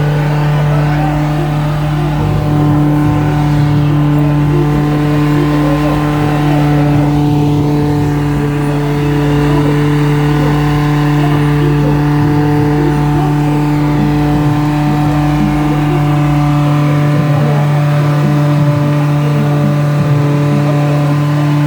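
Car engine held at steady high revs during a burnout, its pitch barely changing, with the hiss of spinning tires beneath it.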